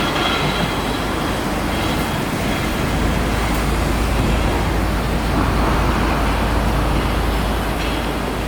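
A train running past with a steady rushing noise, joined by a deeper low rumble about three seconds in.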